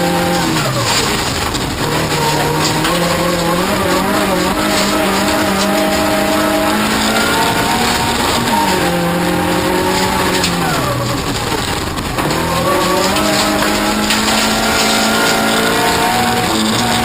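Toyota Corolla rally car's engine running hard under racing load. The revs climb steadily and drop sharply at each gear change, several times, over a constant rush of tyre and road noise.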